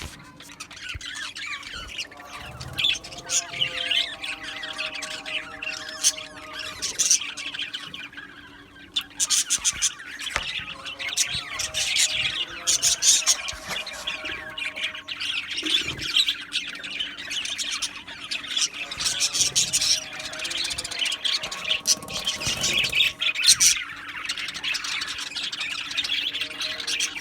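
A flock of budgerigars in an aviary chattering and chirping all together: a dense, unbroken mix of many short, fast calls and clicks, with a faint steady hum underneath.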